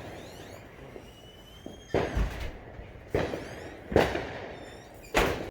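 Fireworks going off: four sharp bangs about a second apart, with faint thin whistles in the gaps.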